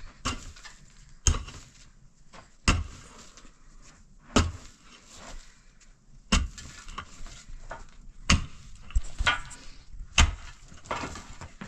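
A series of sharp knocks or blows, about one every one to two seconds, some stronger than others.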